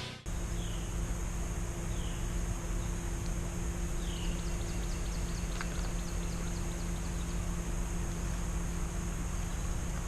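Steady outdoor background noise with a low, even hum. A small bird gives three short, high, falling chirps over the first few seconds.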